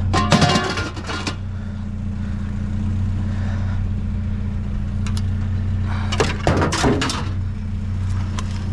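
Small pickup truck engine idling steadily, with two bursts of clattering knocks: one right at the start and another about six seconds in.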